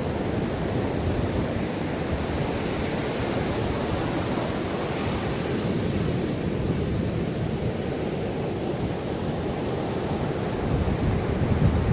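Sea waves breaking and washing up the shore as a steady surf noise, growing a little louder near the end as a bigger wave comes in.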